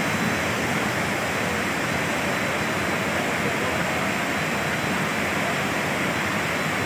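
Steady rush of fast-flowing floodwater, an even roar with no breaks.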